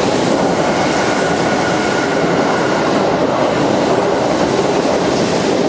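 Electric commuter trains passing through the station at speed without stopping: a steady, loud rush of wheels on rail. A faint high whine sits over it in the first couple of seconds.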